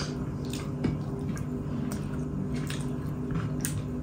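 Eating sounds: a few short, wet clicks and smacks of chewing over a steady low hum.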